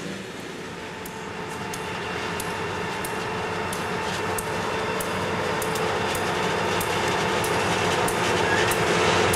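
A Conrail freight train with several diesel locomotives approaching and growing steadily louder, its engines running with a steady rumble and a few held tones. Sharp wheel clicks over the rails come a couple of times a second from about a second in.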